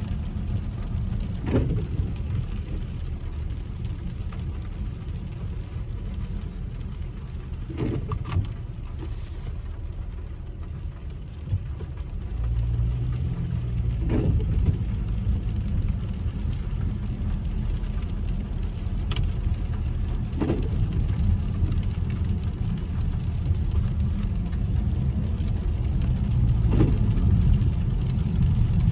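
Car cabin road and engine noise while driving on wet roads, a steady low rumble that grows louder partway through. Short sweeps recur about every six seconds, in the rhythm of windshield wipers on intermittent.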